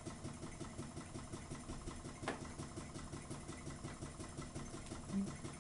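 Small Ringbom Stirling hot-air engine running steadily under load, a faint, fast, even pumping rhythm, while its flywheel friction-drives a small generator. A single sharp click about two seconds in.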